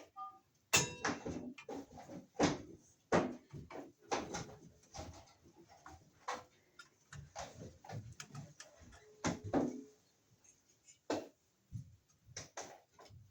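Irregular knocks, clicks and rattles of hard objects being handled, the loudest about a second in, with a brief steady tone near the ten-second mark.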